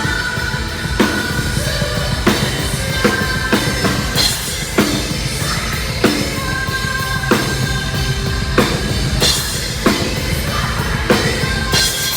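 Live heavy metal band playing loud, with the drum kit to the fore: a dense, fast kick drum under a snare crack about every 1.3 seconds, and held notes ringing over it.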